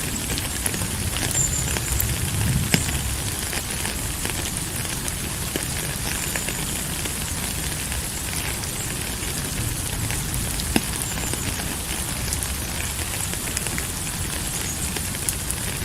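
Steady rain falling: an even hiss with many scattered sharp drop ticks, a couple of them louder.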